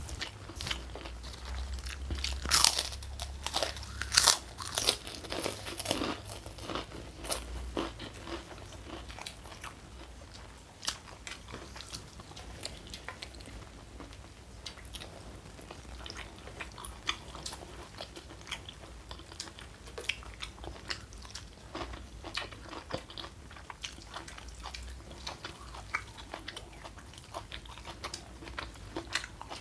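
Close-miked eating: loud, crisp crunches of food being bitten and chewed in the first several seconds, then quieter, steady chewing.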